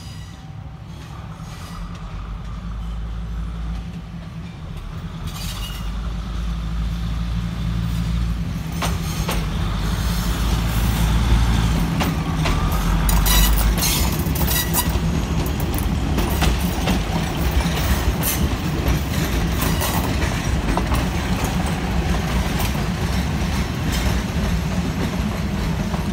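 Diesel railcar passenger train pulling slowly into a station: a steady low engine drone that grows louder over the first dozen seconds as it approaches, then wheel clicks over the rail joints as the cars pass close by.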